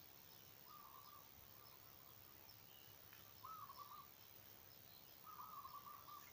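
Faint bird calls: three short calls at the same middle pitch, the last the longest, with a few fainter higher chirps.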